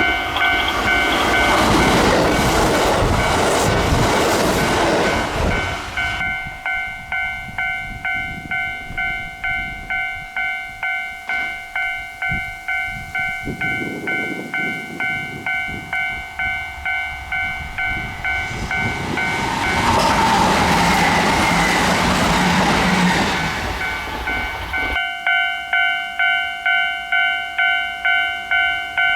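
A railway level-crossing warning bell ringing about twice a second, with Kintetsu electric trains passing the crossing twice: once in the first six seconds and again from about 19 to 25 seconds in.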